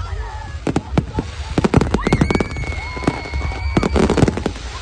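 Fireworks going off: many sharp cracks and bangs in quick, irregular succession, with a high firework whistle held steady for about two seconds midway.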